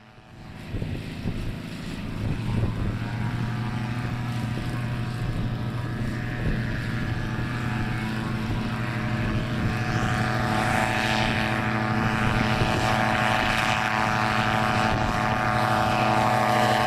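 Propeller-driven ultralight aircraft running, a steady droning hum of unchanging pitch with a rush of air noise. It grows louder over the first couple of seconds and stays at full power.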